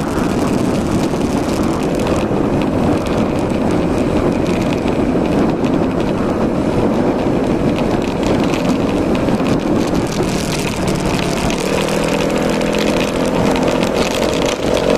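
Yamaha Majesty S 155 scooter's single-cylinder four-stroke engine running, with a clear engine note coming out about twelve seconds in and rising slightly near the end.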